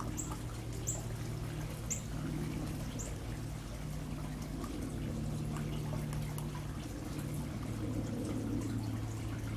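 A small bird gives four short, high, falling chirps about a second apart in the first three seconds, over a steady low rushing hum.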